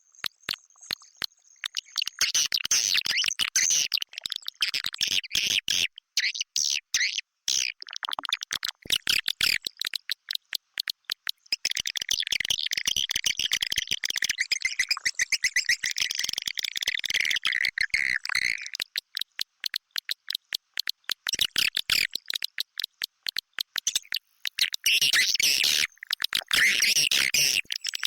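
Swiftlet lure-call recording: edible-nest swiftlets twittering and chirping amid dense, rapid clicking, in bursts with short breaks. It is the kind of call played in a swiftlet house to draw the birds in to roost.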